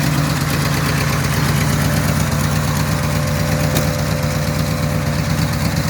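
A 350 V8 in a 1970 Chevrolet C30 tow truck idling steadily. A faint steady whine joins about two seconds in, and there is a single light click near the end.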